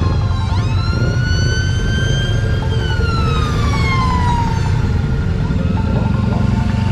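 A siren-like wail, one long call that rises sharply, holds, then slowly falls in pitch, over background music.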